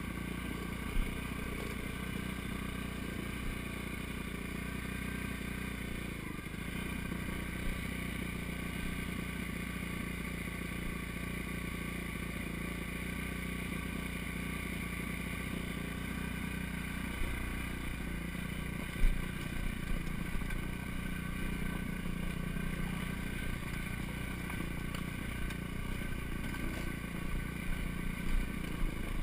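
Four-stroke dirt bike engine running at a fairly steady pace along a trail, with a few sharp knocks from the bike over rough ground; the loudest comes about two-thirds of the way through.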